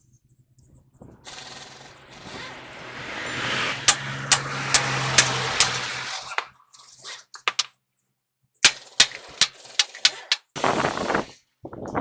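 Heavy-truck axle repair work: a power tool runs with a low hum and rising noise for about five seconds, with sharp ringing metal strikes about two or three a second near its end. Four more metal strikes follow, then a short scraping burst near the end.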